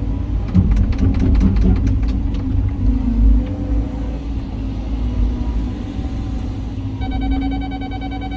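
Cat 323 excavator's diesel engine running under load with a deep rumble, with a quick run of metallic clanks and knocks about half a second to two and a half seconds in as it works the ditch. A steady high electronic tone comes in about seven seconds in.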